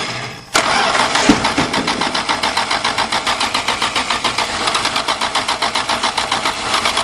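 1977 Dodge Tradesman van's slant-six engine cranking on the starter without firing, an even, fast chug of about six to seven strokes a second that starts abruptly about half a second in. The owner puts the failure to catch down to not enough gas.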